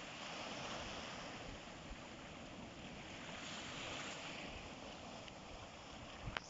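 Sea surf washing in, a continuous rushing hiss that swells and eases over a few seconds, with some wind rumble on the microphone and a sharp click near the end.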